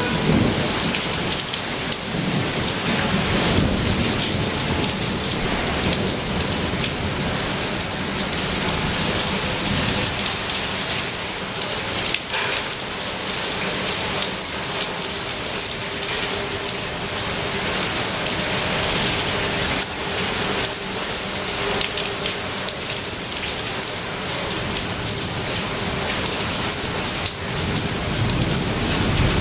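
Hail and heavy rain pelting hard surfaces: a dense, steady clatter of countless small impacts.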